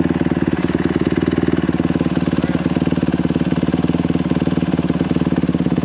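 150cc dirt bike engine idling steadily in neutral, an even, unchanging run of firing pulses.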